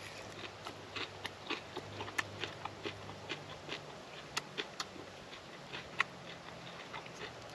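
A person chewing a bite of homemade tuna sushi, with irregular small clicks and smacks of the mouth.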